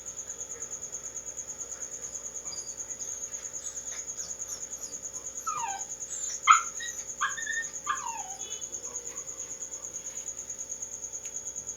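A cricket chirping steadily in a fast, even pulse, and about halfway through a dog gives four or five short whimpering yelps, several dropping in pitch.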